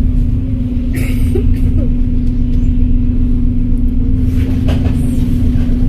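Volvo B7RLE single-deck bus running under way: a steady low rumble with a constant hum held throughout. Brief knocks or rattles come about a second in and again between four and five seconds.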